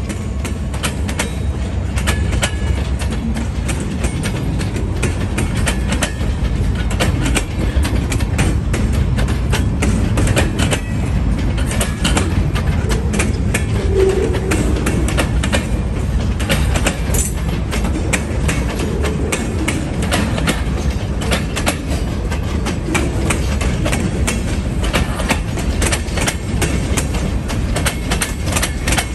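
Freight cars rolling past at close range: centerbeam flatcars loaded with lumber, then empty open-top hoppers. A steady wheel-on-rail rumble with a continuous rapid clickety-clack of wheels over rail joints.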